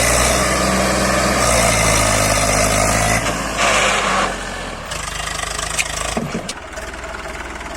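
Tractor diesel engine running hard at high revs, then dropping back to a lower, steadier run about five seconds in, with a brief louder rushing noise just before.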